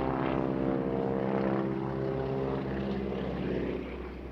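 Boeing Stearman biplane's radial engine and propeller running on a display pass, a steady engine note that drops away near the end.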